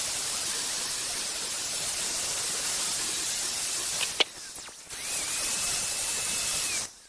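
Angle grinder with a grinding wheel grinding the edge of a steel lawn mower blade flat to take out the nicks: a steady hiss of grinding that breaks off for about a second a little past halfway, then resumes and stops near the end.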